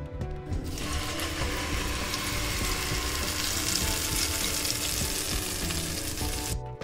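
Ground peanut chutney sizzling as it hits hot sesame oil in a nonstick pan, tempering the chutney. The sizzle starts about a second in and stops abruptly near the end.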